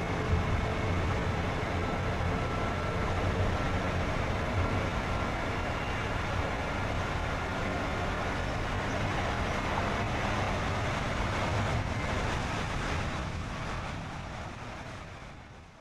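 Steady road and engine noise of a car driving along, which fades out over the last few seconds.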